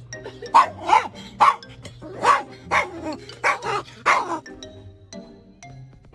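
A dog barking about eight times in quick succession over background music; the barks stop about four and a half seconds in, leaving the music with light plinking notes.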